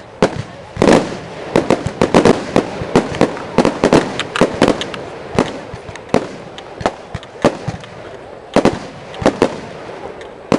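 Aerial firework display: shells bursting in quick succession, a dense run of sharp bangs and crackles that thins out after about five seconds, with two big bangs near the end.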